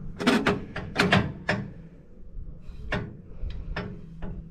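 Balance-beam platform weighing scale being rebalanced, its sliding weight moved along the beam peg by peg: a run of short clicks and knocks, several in the first second and a half, then single ones about three and nearly four seconds in.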